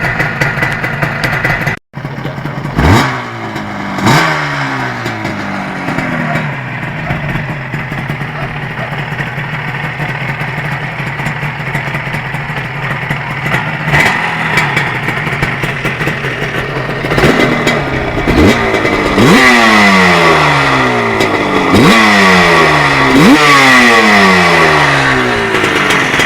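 Pannonia P20's two-stroke single-cylinder engine, breathing through a Petku Racing aftermarket exhaust, idling and being blipped on the throttle. Each blip rises sharply and then falls back to idle: two blips early on, then a quicker run of about five blips in the last third.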